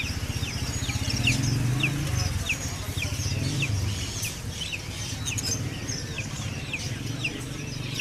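Small caged birds chirping: short, falling chirps repeat about twice a second over a low, steady rumble and murmur of background noise.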